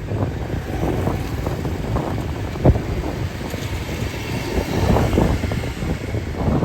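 Street ambience: a steady low rumble of passing vehicles with wind buffeting the microphone, scattered small clatters, and one sharp knock a little under three seconds in.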